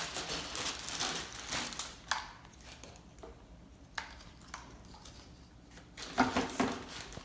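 Hard plastic parts being handled, with light rustling, a few sharp clicks and knocks, and a busier spell of handling near the end.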